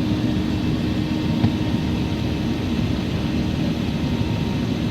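Steady, even engine and airflow noise of an Airbus A380 airliner heard from inside the passenger cabin, with a low steady hum.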